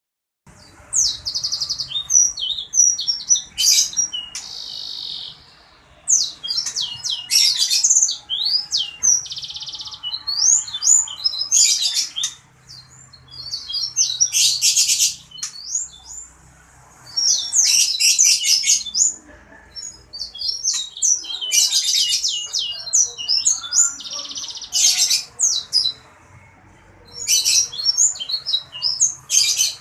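A sanger songbird singing in full, busy song: rapid high chirps, quick up-and-down whistles and buzzy trills in bursts of two to four seconds, with short pauses between them.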